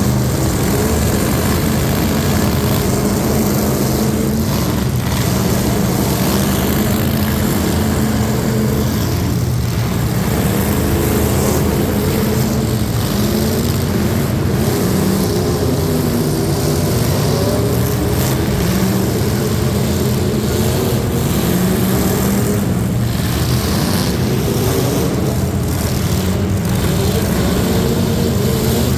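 Loud truck engine running continuously, its drone wavering up and down in pitch over a heavy rushing noise.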